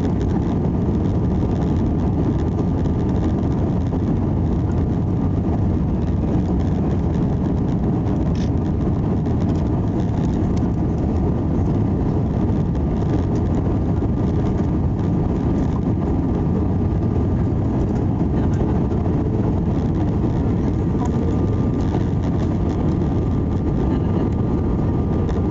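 Steady cabin noise of an Airbus A320-200 in flight: a constant rumble of engines and airflow, with a faint steady high tone.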